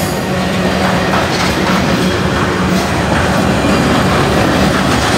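Freight train flatcars rolling past, steel wheels running over the rails in a steady, loud rumble.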